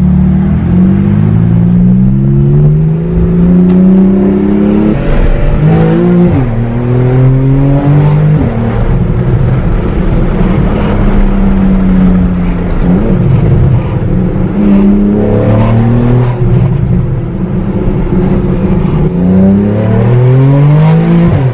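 Porsche 911 (991 Carrera 2S) flat-six engine through a Sharkwerks race exhaust, heard from inside the cabin, accelerating hard through the gears and very loud. The engine note climbs again and again and drops sharply at each upshift, with a steadier stretch of cruising in the middle.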